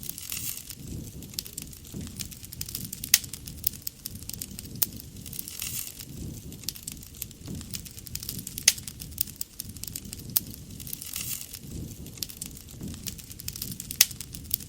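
Wood campfire burning: the wood crackles with many small snaps and a few louder pops, over a low rumble of the fire.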